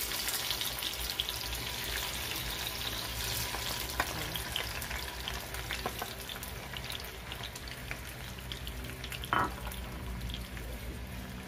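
Diced tomatoes sizzling steadily as they fry in hot cooking oil in a nonstick pan, with a few light taps of a wooden spatula and a brief louder burst about nine seconds in.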